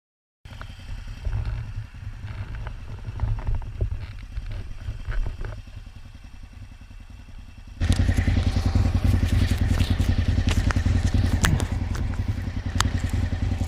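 Aprilia RSV V-twin motorcycle engine idling with a low pulsing beat, with clicks and scrapes of handling over it. About eight seconds in the engine suddenly becomes much louder and closer.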